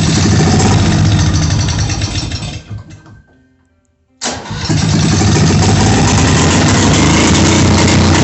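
Czech TZ-4K-14 tractor engine, just started, running for about three seconds and then dying away. It starts again abruptly about four seconds in and runs steadily.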